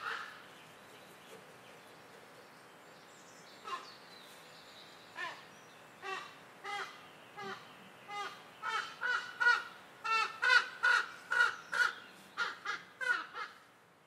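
A bird calling in a series of short calls, a few spaced out at first, then from about halfway through faster and louder, around three a second, before stopping shortly before the end.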